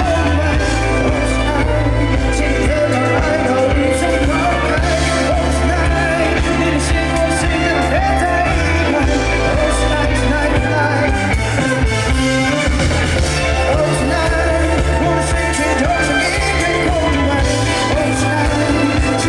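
An indie pop band playing live, with a sung vocal over bass, drums and keyboards-and-guitar backing.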